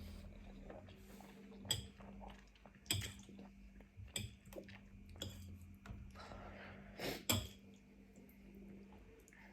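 Eating utensils clinking against a dish: several sharp clinks, two in quick succession about seven seconds in, with softer handling noises between them.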